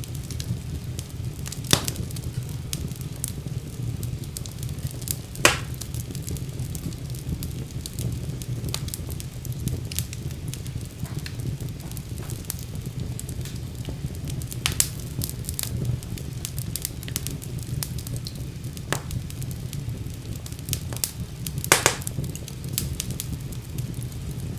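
Wood fire burning in a fireplace, a steady low rumble of flame with scattered crackles and a few sharper pops.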